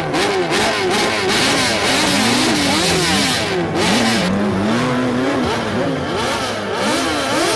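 Motorcycle engines revving up and down over and over, the pitch rising and falling about twice a second, with more than one engine overlapping.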